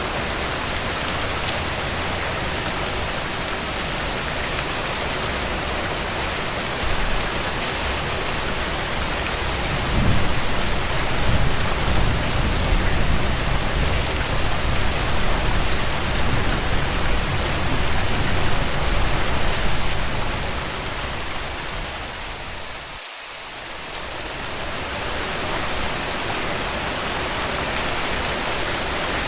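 Steady heavy rain pattering on a tent. A low rumble rises under it about a third of the way in and lasts roughly ten seconds. The whole sound dips briefly in level about three-quarters of the way through.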